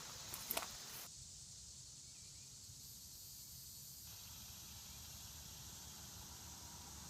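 A couple of footsteps in the first second, then faint outdoor quiet with a thin, steady high-pitched hiss.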